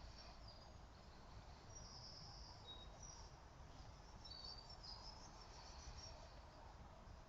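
Near silence with faint birdsong: scattered short, high chirps and whistles over a low steady hush.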